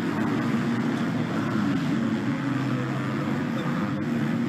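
Engines of MX2 motocross bikes running, their pitch rising and falling as the riders ease off and rev.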